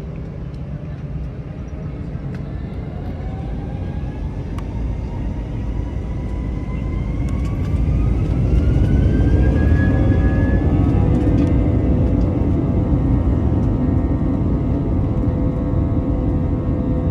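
Airbus A321 jet engines spooling up to takeoff power, heard inside the cabin: a whine rises in pitch over several seconds as the rumble grows louder, then both hold steady and loud from about halfway through.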